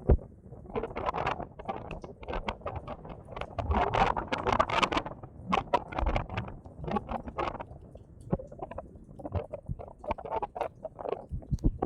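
Wind gusting with a low rumble, under dense, irregular crackling and pattering that swells and fades in waves.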